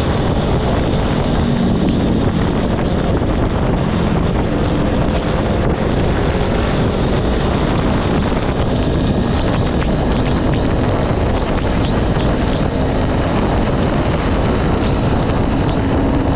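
Heavy wind rush on the microphone of a moving motorcycle, with the Kawasaki Ninja 400's parallel-twin engine faintly humming underneath at a steady speed. Small scattered ticks, more of them in the second half, fit raindrops striking the microphone or helmet.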